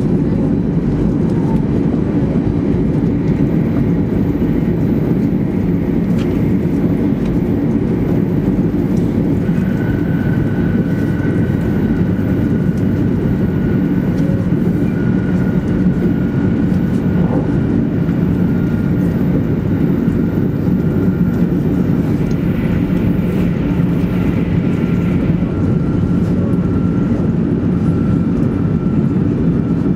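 Interior cabin noise of a 200 series Shinkansen train running at speed: a steady low rumble of wheels on rail and air, with a faint high whine that sinks slightly in pitch.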